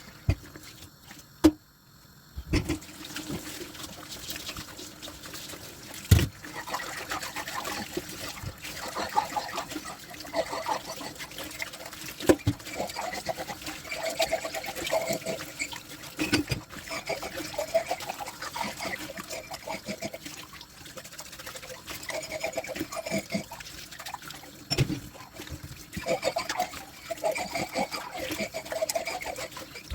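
Dishes being washed by hand at a kitchen sink: water trickling and splashing, with a few sharp clinks and knocks of dishes. A short near-quiet gap comes at the very start.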